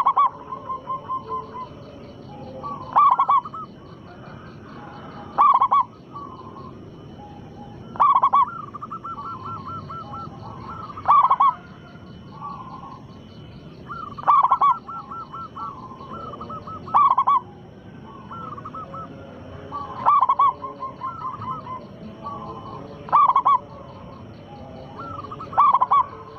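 Local-strain zebra dove (perkutut) singing: a loud cooing phrase about every three seconds, each trailed by softer rapid coos, ten phrases in all. This is a lure recording meant to provoke other doves into answering.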